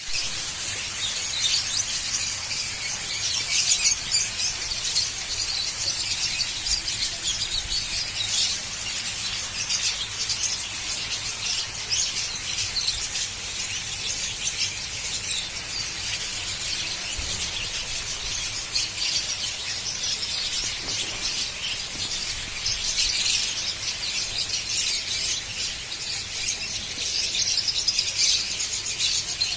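Many small birds chirping together in a dense, continuous chorus of high, squeaky chirps.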